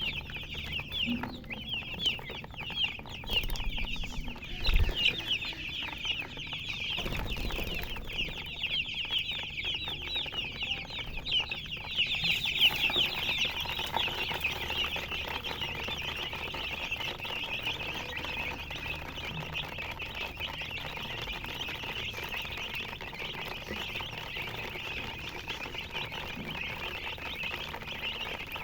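A brood of baby chicks peeping continuously, many high, short, downward-sliding peeps overlapping. A few low thumps come in the first several seconds.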